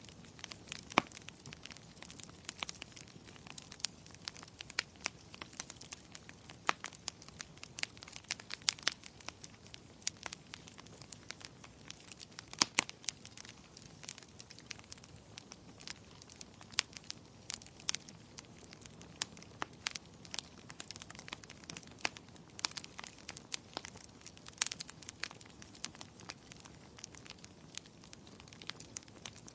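Wood fire in a fireplace crackling: frequent irregular sharp pops and snaps over a low steady hiss of the burning logs.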